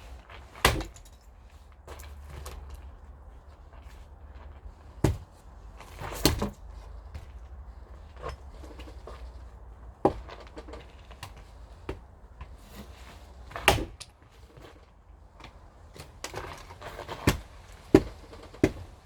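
Axe blows splitting firewood: sharp, single wooden impacts every few seconds, then a quicker run of strikes near the end.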